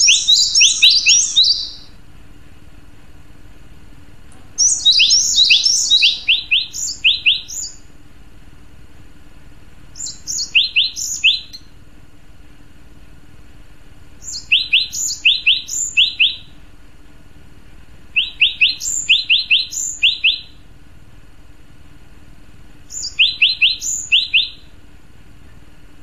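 Male cinereous tit (gelatik batu) singing: six phrases of quick, sharp repeated notes, each one to three seconds long, with pauses of a few seconds between them.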